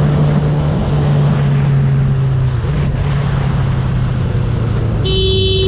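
Vehicle engine running at a steady pitch with road and wind rush, easing off a little about halfway through; a vehicle horn starts sounding about five seconds in.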